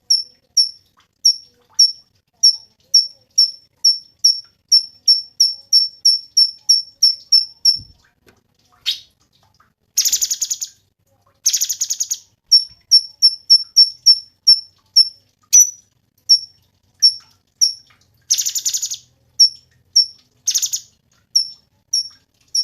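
Cucak cungkok songbird calling: a run of sharp, high chirps repeated about three to four times a second and speeding up, then several harsh buzzy rattles about a second long between further runs of chirps. A brief low thump comes about eight seconds in.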